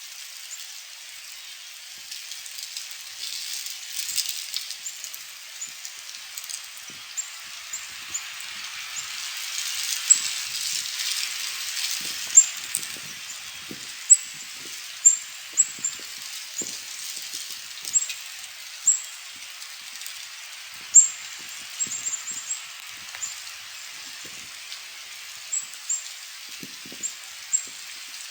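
Steady hiss of falling snow in a storm, with scattered soft taps and many short, high chirps.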